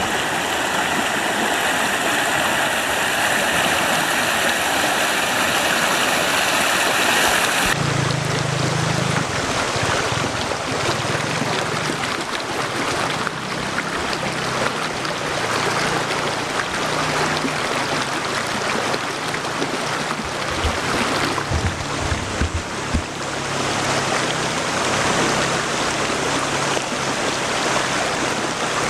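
Small forest waterfall pouring steadily over rocks, a continuous rush of falling water. About eight seconds in the sound changes abruptly to a fuller rush with a deeper low rumble.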